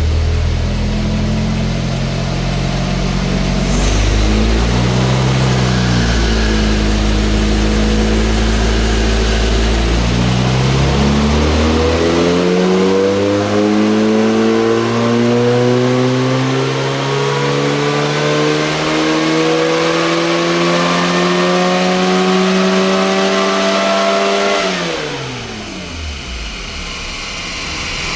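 Renault 8 engine pulling under load on a rolling-road dyno during ECU mapping: it runs at low revs with one short blip, then climbs steadily through the rev range for about fourteen seconds before the throttle closes and the revs drop sharply near the end.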